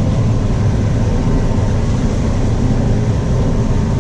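Combine harvester running steadily under load while combining corn, heard from inside the cab: a steady low drone.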